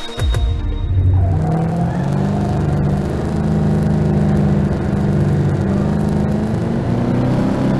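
Audi S1 EKS RX rallycross car's turbocharged four-cylinder engine running at a fairly steady speed, after a sudden hit right at the start.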